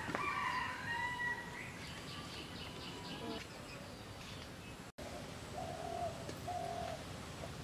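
Birds calling: a few drawn-out calls in the first second or so, then a run of short high chirps, then two short lower calls near the end.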